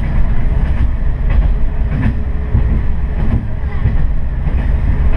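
Diesel railcar running along the line, heard from the cab: a steady low engine and running rumble with irregular clacks of the wheels over the rails.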